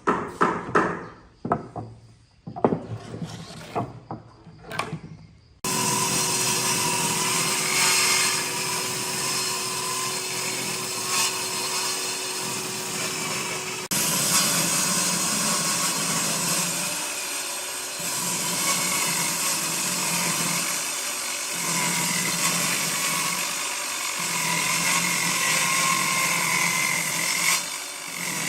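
A few sharp knocks, then from about six seconds in an electric power tool runs on wood, with brief dips in its sound every few seconds.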